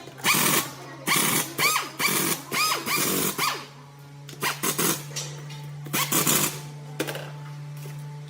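Hand tool working in short repeated strokes, clicking and squeaking about twice a second, then pausing and striking a few more times, over a steady low hum.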